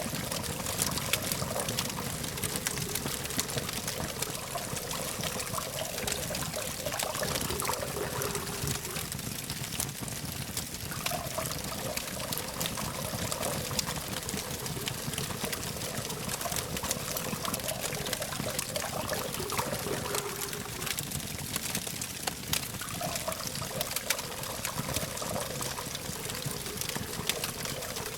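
Campfire burning with a steady hiss and many quick crackles and pops, over a low hum of distant traffic.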